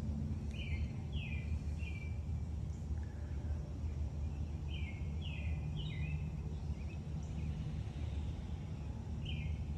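A bird singing short phrases of three or four falling whistled notes: about half a second in, again around five seconds, and once more near the end. A steady low outdoor rumble runs underneath.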